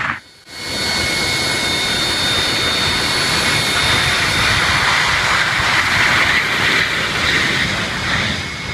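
Jet aircraft engines running loud and steady, a rushing noise with a high whine through it. It swells in about half a second in and fades near the end.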